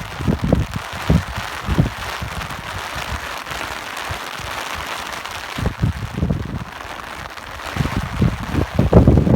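Steady rain hissing, with irregular gusts of wind rumbling on the microphone, strongest near the start and again near the end.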